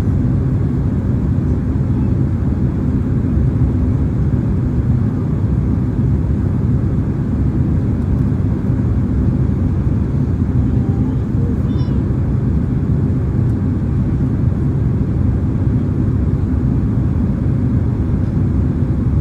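Steady cabin noise inside a Boeing 767-300ER in flight: a low, even drone of engines and airflow.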